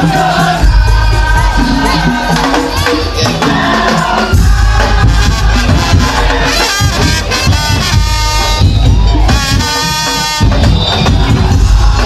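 A Madurese tong-tong music ensemble playing loudly, with booming low drums and a bending melody line over them.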